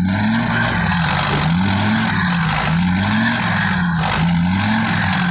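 Dump truck's diesel engine revving up and down over and over, about four surges, as it strains to pull through deep mud.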